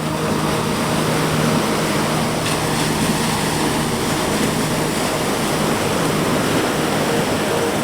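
Ocean surf washing steadily onto the shore, with a wave breaking a little brighter about two and a half seconds in, over a soft held ambient synth drone.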